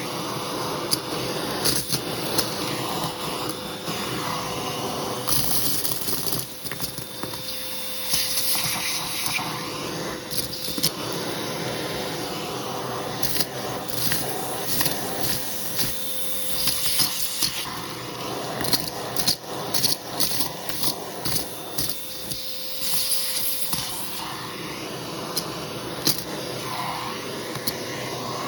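Hoover vacuum cleaner running with a hose tool worked over a shag rug. A steady motor whine and rush of air runs throughout, with frequent clicks and crackles as debris is sucked up. The sound swells and dips every few seconds as the tool is pushed and lifted.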